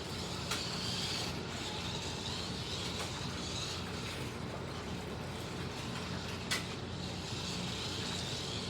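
Slot cars running on a plastic track: MR Slotcar Cunningham Corvettes and a Scalextric Mercedes 300 SLR lapping, their small electric motors whining and swelling and fading as they pass. A few light clicks are heard, with one sharp click about six and a half seconds in.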